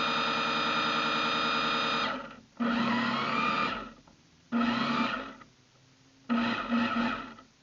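Electric motor of an RC boat whining at a steady pitch, then cutting off about two seconds in. It is followed by three short bursts of throttle, each about a second long.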